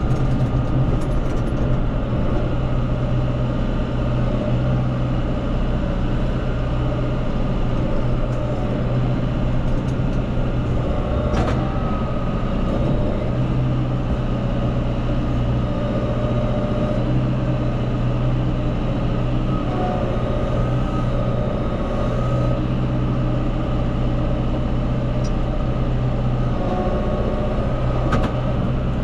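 Engine of a farm machine running steadily at a constant pitch while pushing manure and hay chaff off a cattle feeding pad, with a couple of faint knocks.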